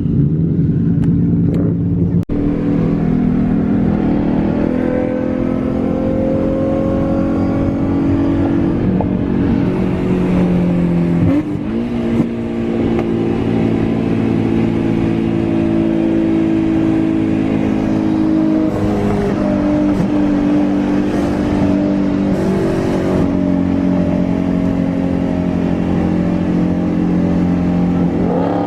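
Car engine running while driving, a steady drone that changes pitch a few times, with a short dip and rising pitch about eleven seconds in.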